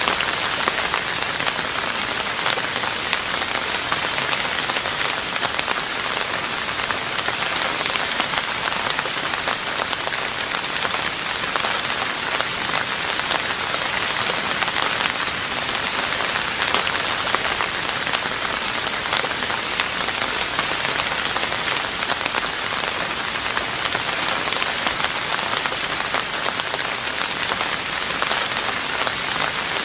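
Steady rain falling on a roof, a dense, even patter of drops that neither builds nor fades.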